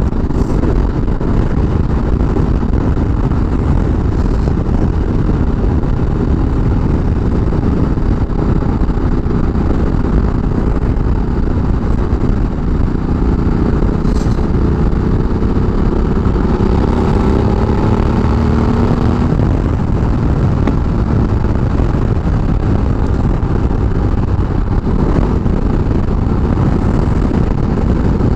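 Steady wind rush and the Ducati Multistrada 1200S's L-twin engine running at road speed, about 50 mph, heard through a microphone inside a closed motorcycle helmet. A faint rising engine tone runs for a few seconds past the middle.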